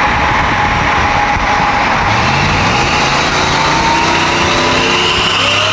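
Vehicle on the move: a steady loud rush of road and wind noise, with the engine's pitch rising about two seconds in as it accelerates.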